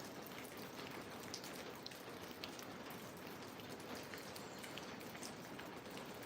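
Steady rain falling, a soft even hiss with scattered drops ticking close by.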